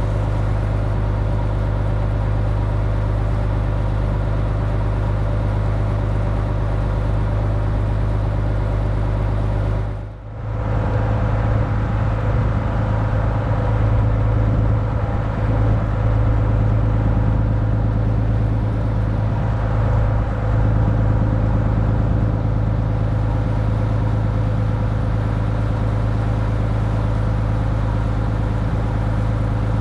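A Dutch barge's engine running at a steady speed, a constant drone. The sound dips sharply for a moment about a third of the way through, then carries on as before.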